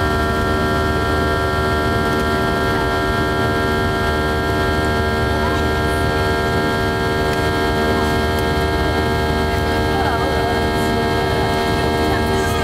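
Boeing 737-800's CFM56-7B jet engines heard from inside the cabin: a loud, steady drone with many steady whining tones layered over a low rumble.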